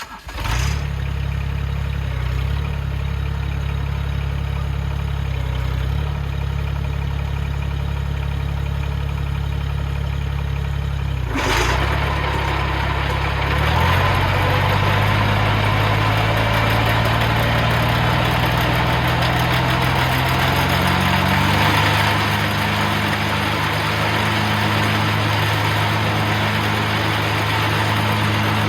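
Mahindra eMax 20 HST compact tractor's diesel engine running at low RPM. About eleven seconds in there is a clunk as the PTO engages the belly mower deck. Then the engine speed is raised to mowing RPM and the tractor and spinning deck run steadily at the higher pitch.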